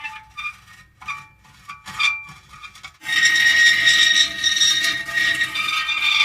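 Metal creaking: a few short, broken creaks over the first three seconds, then a loud, long squealing creak that holds a steady pitch.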